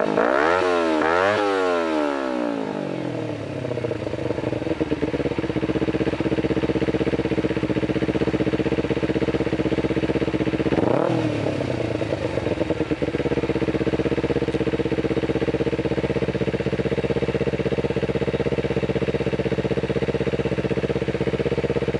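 2008 Kawasaki Ninja 250R's parallel-twin engine breathing through an Area P full aftermarket exhaust and Uni air filter: two quick throttle blips at the start that settle back to idle, one more short rev about halfway through, then a steady idle.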